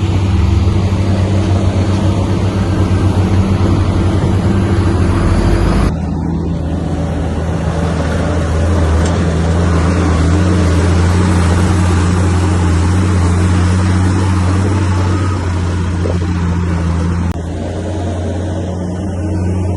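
Heavy diesel engine of a Komatsu bulldozer running steadily under load with a deep, even drone. The sound shifts abruptly twice, about six and about seventeen seconds in.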